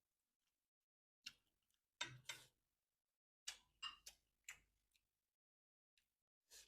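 Faint eating sounds, close-miked: about nine short, sharp clicks and smacks at uneven intervals, some in quick clusters around two seconds in and three and a half to four and a half seconds in.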